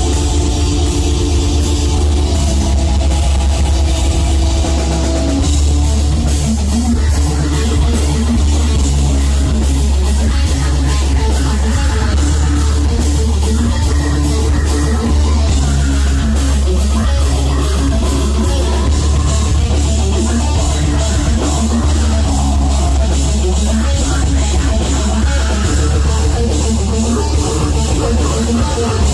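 A live heavy metal band playing loud distorted electric guitars over a drum kit, with heavy bass. It is picked up close in the room, so the sound is dense and bass-heavy.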